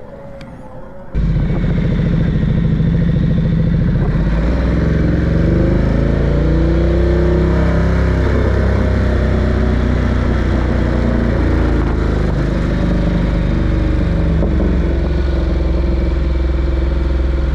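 Ducati Diavel 1260's 1262 cc V-twin engine running on the road, cutting in suddenly about a second in, its pitch rising and falling with the throttle.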